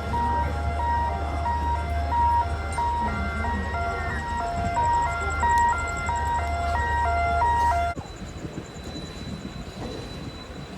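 Simple electronic tune of plain, beep-like notes stepping up and down over a steady low hum; it stops abruptly about eight seconds in, leaving a quieter background with a few faint clicks.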